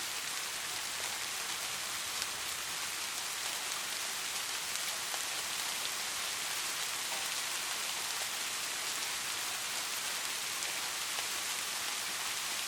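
Steady soft rain falling, an even hiss with scattered drops ticking.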